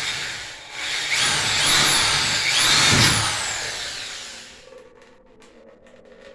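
Power drill boring a hole into a gas furnace flue pipe to drain trapped water. The motor whine rises and falls in pitch and dies away about four and a half seconds in.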